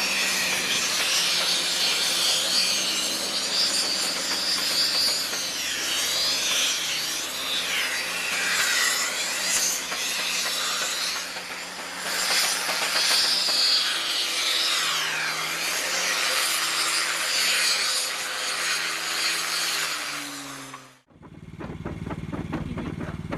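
A vehicle running under a loud, steady hiss, with faint engine tones that shift in pitch now and then. The sound cuts off suddenly near the end.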